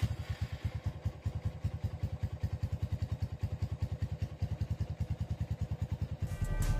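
Honda CB motorcycle engine idling, an even, steady beat of about ten pulses a second.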